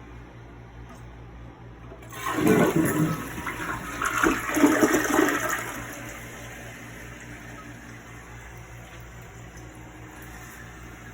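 Toilet flushed about two seconds in: a loud rush of water for about four seconds, then a steady, quieter hiss of water.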